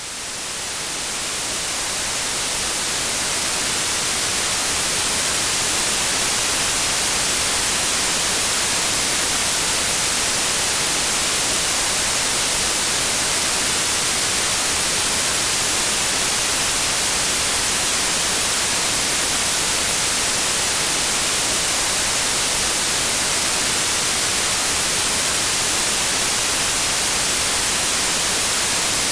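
Steady white noise, an even hiss brightest in the highs, fading in over the first few seconds and then holding level.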